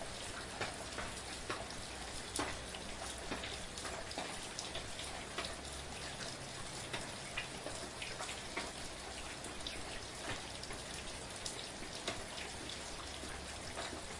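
Steady rain falling, an even hiss with many separate drops ticking irregularly on a surface.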